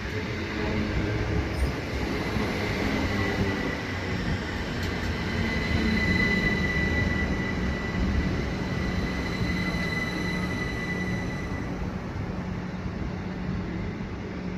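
Class 387 Electrostar electric train arriving at a station, running with a steady rumble. A high, steady squeal from the running gear starts about three seconds in and fades out about eleven seconds in. A low, steady hum holds through the second half.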